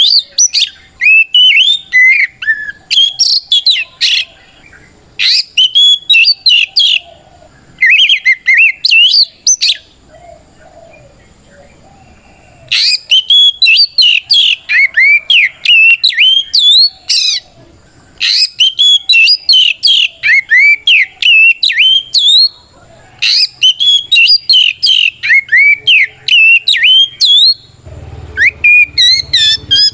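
Oriental magpie-robin (kacer) singing loud, rapid phrases of sliding whistles and chirps in bursts of a few seconds with short pauses: the full, challenging song used to provoke other males into answering. A low rumble comes in near the end.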